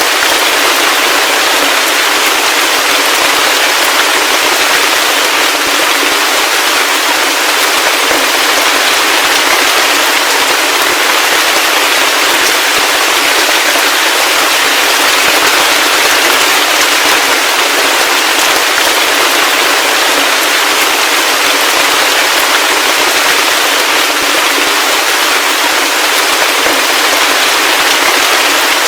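Heavy rain falling steadily: a dense, even hiss of closely packed pattering drops with no deep rumble and no thunder.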